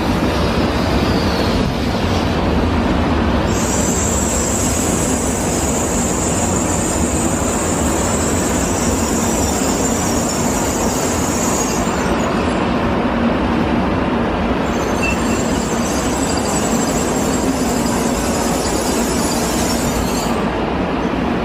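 Shinkansen train running at the platform: a steady heavy rumble of wheels on rail. A thin high whine comes in a few seconds in, drops out about halfway and returns near the end.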